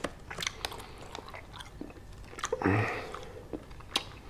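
A person chewing a mouthful of candy, with small wet mouth clicks and smacks, and a short closed-mouth hum about two and a half seconds in.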